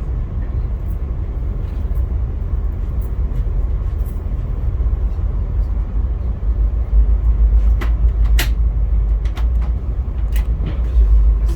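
Via Rail passenger train running, a steady low rumble with scattered sharp clicks and knocks from about eight seconds in.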